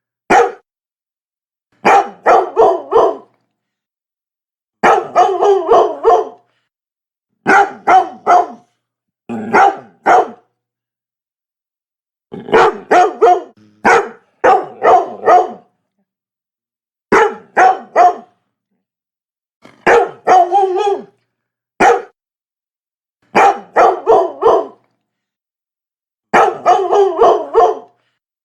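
Labrador barking in quick bursts of three to five barks, with a second or two of dead silence between bursts.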